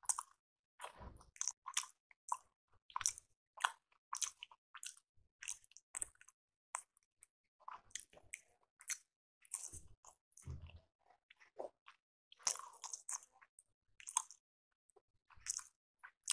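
A person chewing and biting rice appe (paniyaram, South Indian rice-batter dumplings), in short irregular bursts with brief pauses between them.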